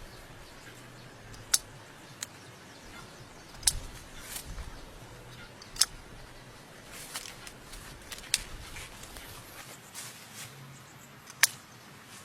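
About six sharp, separate clicks or knocks at irregular intervals over a faint steady background.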